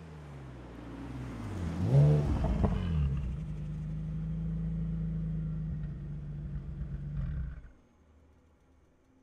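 Nissan 370Z's 3.7-litre V6 engine: the note falls, then swells to a quick rev rise and fall about two seconds in, then holds a steady note. It cuts off suddenly shortly before the end.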